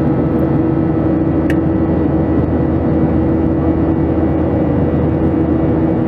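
Steady cabin noise of a Boeing 737-700 heard from inside the cabin: the CFM56 engines running with a constant hum and a broad air rush. A brief faint tick about one and a half seconds in.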